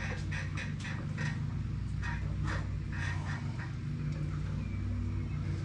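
A steady low machine hum with faint, irregular light clicks and rustles over it.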